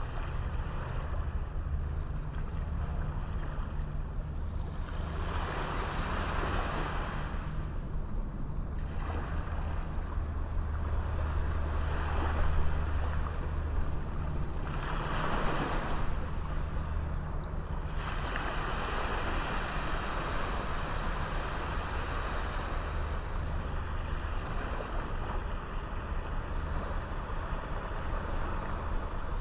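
Waves washing onto a small sandy beach, the surf swelling and falling back several times over a steady low rumble.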